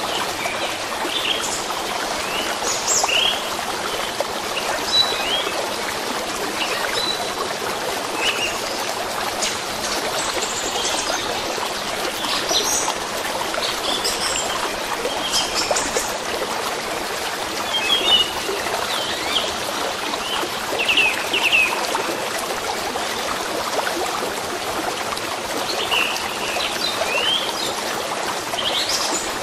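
A small stream running steadily, with songbirds chirping in short scattered calls over it.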